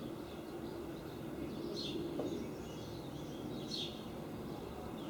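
Steady outdoor background hum with two short, falling bird chirps, about two and four seconds in.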